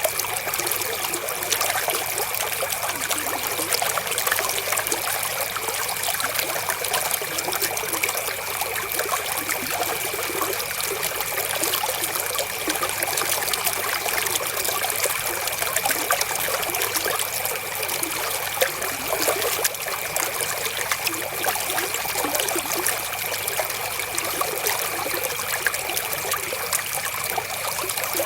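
River water flowing, a steady trickling and splashing.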